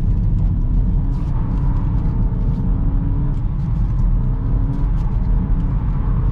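BMW 320i's 2.0-litre turbo four-cylinder engine running hard under throttle, heard from inside the cabin, its pitch rising and falling as the rear-wheel-drive car slides on wet asphalt in a drift attempt.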